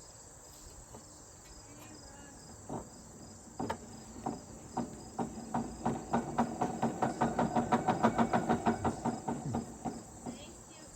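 A 1956 Fedders window air conditioner's fan motor starts up and hums, with a rhythmic ticking that quickens to about five ticks a second and then slows and stops as the motor is switched off.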